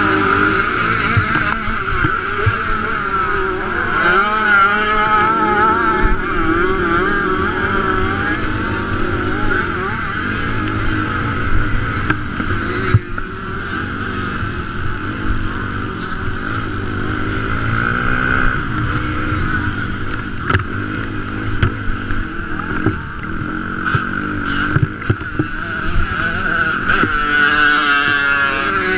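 Motocross bike engine heard from a camera on the bike, racing on a dirt track with its revs rising and falling as the rider works the throttle and gears, with a brief drop about halfway through. Other bikes' engines are close by.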